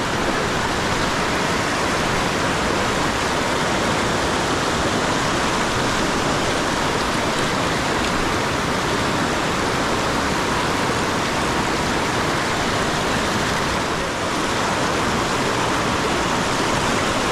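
Steady rush of fast-flowing river water, an even hiss that holds unchanged throughout.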